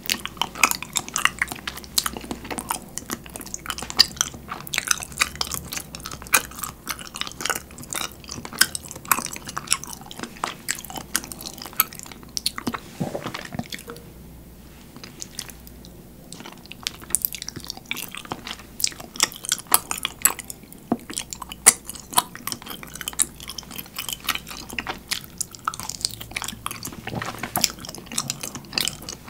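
Close-miked chewing of chewy, sauce-coated dango (rice cake dumplings): sticky, wet mouth sounds with many quick smacks and clicks, easing off for a moment about halfway through.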